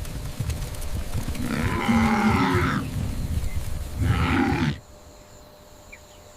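Elephant vocalising with low rumbling grunts and two louder calls, the first about one and a half seconds in and the second near four seconds. The sound cuts off abruptly about five seconds in.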